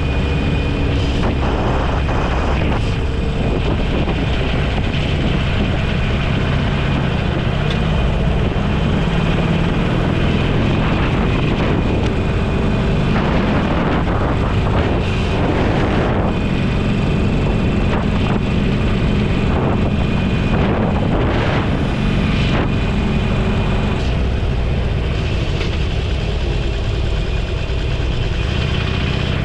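Motorcycle under way: a steady engine note under heavy wind rush on the microphone, with a few brief swells of louder rushing around the middle.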